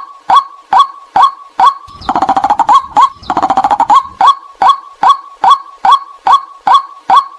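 White-breasted waterhen lure recording: a loud 'kwak' call note repeated evenly about twice a second. About two seconds in it gives way to two short bouts of rapid chattering calls, then the steady kwak notes resume.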